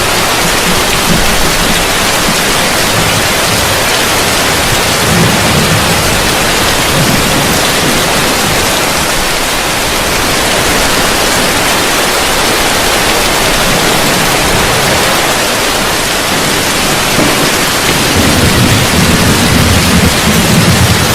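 Heavy rain pouring steadily, heard from under a roof, a dense even hiss. A low rumble of thunder swells in near the end.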